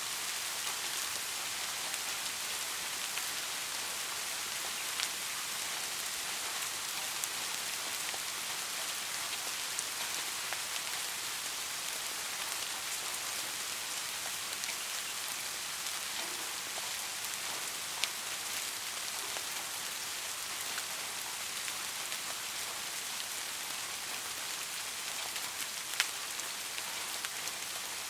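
Steady rain falling on a surface, a constant even hiss with scattered individual drop ticks and a few louder single drips.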